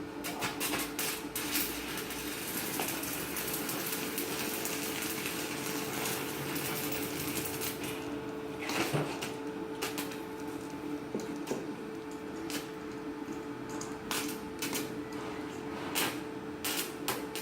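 Stick (shielded metal arc) welding with a 4.0 mm electrode on an inverter welder: a steady crackling hiss of the arc with scattered sharper pops, over a steady low hum.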